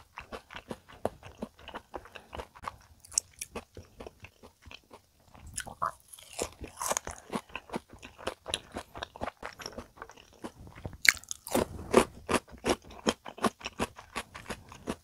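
Close-miked chewing of crispy deep-fried menbosha (shrimp toast), a steady run of crunches that grows thicker and louder about six seconds in and again about twelve seconds in.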